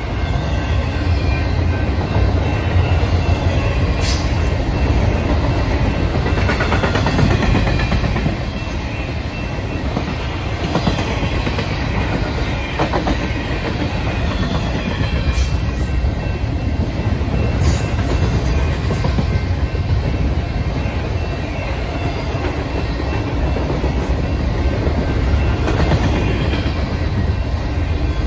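Double-stack intermodal freight cars of a BNSF train rolling past on the rails: a steady, loud rumble of steel wheels on track, with a few brief sharp clicks along the way.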